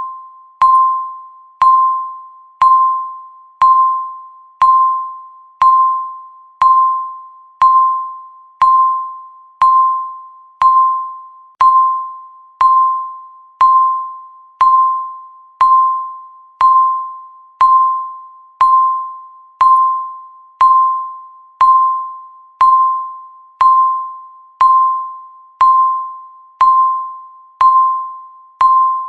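Countdown timer's tick sound: one short, clear pitched ding about once a second, each ringing briefly and fading before the next, perfectly regular.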